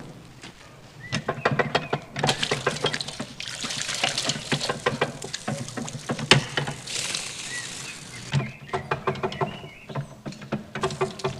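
Water pouring and splashing in patches, with many small clicks and knocks and a faint steady hum.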